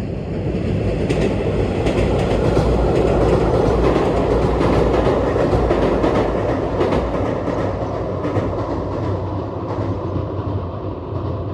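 115 series electric train running on the rails, its wheels clicking over rail joints. The sound slowly dulls and eases off toward the end.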